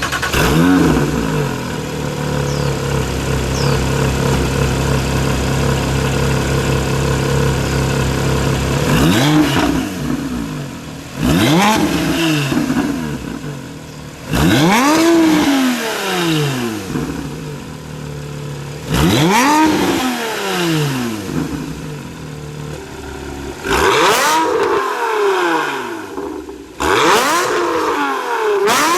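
Porsche 997.2 Carrera S 3.8-litre flat-six through an iPE valved titanium exhaust with headers and cat bypass. It idles steadily, then from about nine seconds in is blipped up and back down six times in quick revs.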